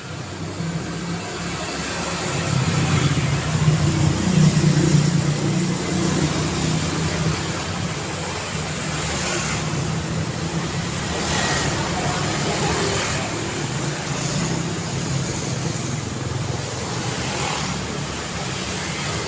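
Busy street traffic: a steady wash of passing vehicles, with one engine swelling loudly about three to five seconds in, and several more vehicles swishing past later on.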